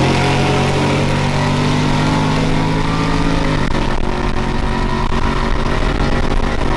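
A straight-piped 5.0 V8 pickup's exhaust drones steadily while driving. About three and a half seconds in, its pitch drops and the sound turns rougher.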